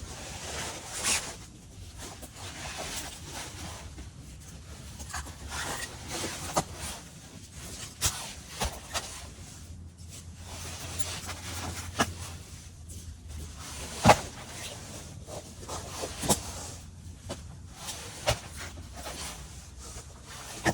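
Irregular knocks and clicks, like things being handled and set down, over a low steady background noise; the sharpest knock comes about two-thirds of the way through.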